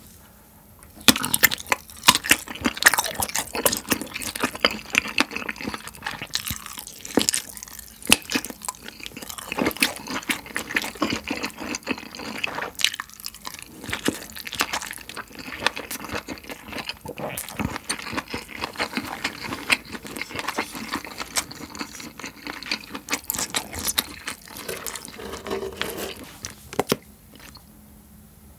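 Close-miked chewing of a grilled sausage, a dense run of sharp wet mouth clicks and smacks that dies away near the end.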